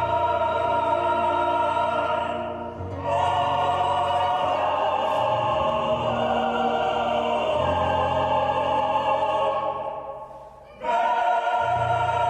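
Classical-style singing in long held notes, broken by two short pauses, one near the start and one near the end.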